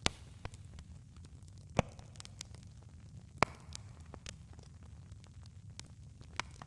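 Campfire crackling: scattered sharp pops and snaps, the loudest near the start, about two seconds in and about three and a half seconds in, over a low steady rumble.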